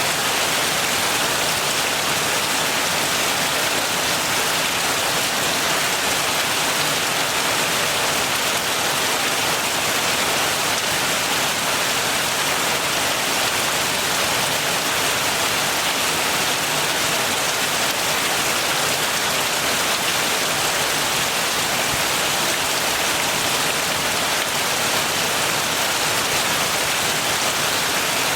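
Steady heavy rain falling and pattering on surfaces, an even hiss with no let-up.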